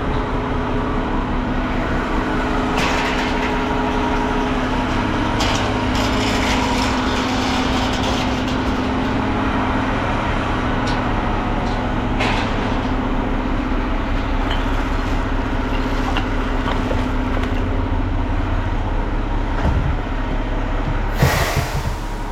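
Front-loader garbage truck's diesel engine running steadily while the truck is driven, with a steady hum, light rattles and a short loud burst of noise near the end.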